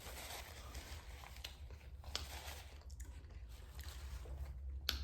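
Chewing food close to the microphone: soft wet mouth noise with a few sharp little clicks.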